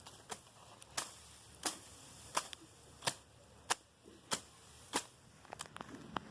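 Sharp strikes of a hand tool repeated at an even pace, about three every two seconds, with a few lighter clicks near the end.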